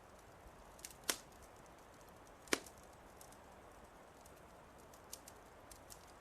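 Wood fire crackling: two sharp pops about a second and a half apart, among faint scattered ticks over a low steady hiss.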